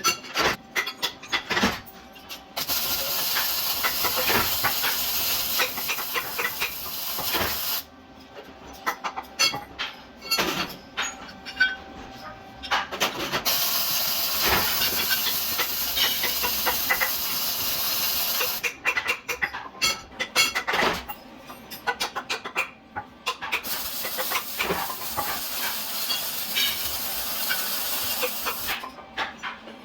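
Three spells of steady hissing from a workshop tool, each about five seconds long, with metal clinks and taps between them.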